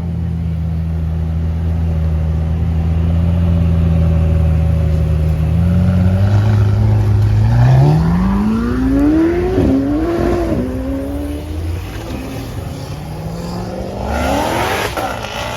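A car engine running steadily at one pitch, then revved: the pitch climbs, wavers up and down, and falls back. Near the end it rises again.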